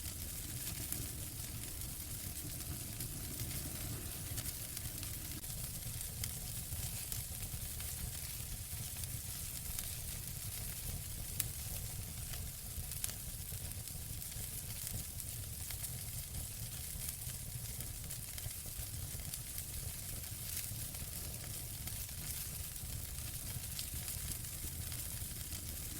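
Wood fire in a fireplace crackling steadily, with a soft hiss and a low rumble under many small crackles, and two louder pops about halfway through.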